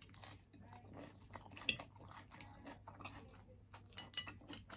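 Close-up chewing of crispy fried shrimp: irregular crunches and wet mouth clicks, the loudest crunch about a second and a half in.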